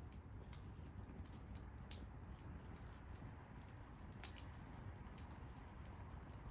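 Bonfire crackling over a low steady rumble, with scattered sharp pops and one louder pop about four seconds in.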